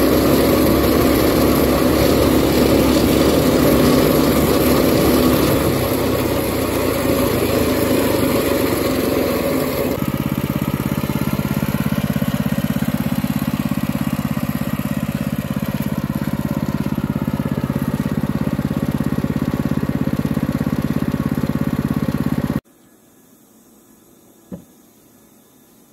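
Minibike's small engine running hard at high revs with its governor bypassed by a zip tie on the governor spring. The sound changes abruptly about ten seconds in, and near the end it cuts off suddenly to a low hum with a single short click.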